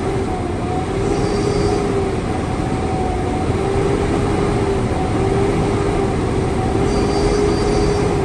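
Caterpillar C11 ACERT diesel engine of a Kenworth W900, heard from the cab, brought up to raised revs and held there. A steady whine rides over a deep rumble, and the revs fall away right at the end.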